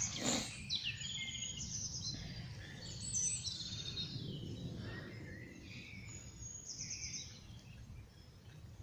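Small songbirds chirping and trilling, several short phrases overlapping, over a low steady rumble.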